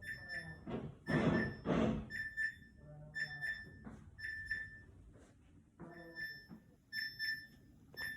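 Samsung refrigerator beeping non-stop: short, high electronic beeps, mostly in pairs, repeating over and over. The owner traced the beeping to a damaged wire near the freezer door hinge. Two louder rustling knocks come about a second in.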